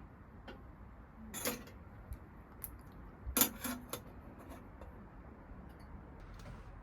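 A few light clicks and clinks of small hard objects being handled, loudest about a second and a half in and again around three and a half seconds in, with faint ticks between.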